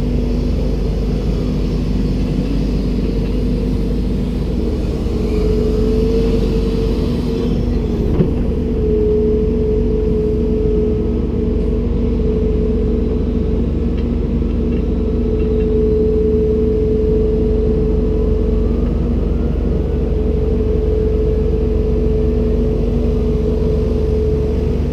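Komatsu PC290-10 excavator's diesel engine and hydraulics running steadily under work, with a steady hum and a whine that swells and fades. A hiss drops away about seven seconds in, and there is a single short knock about a second later.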